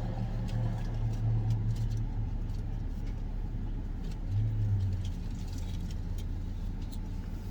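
Car engine idling: a steady low hum that swells twice, with a few faint clicks.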